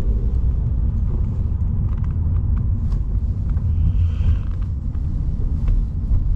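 Car driving, a steady low rumble of engine and road noise, with a brief hiss about four seconds in.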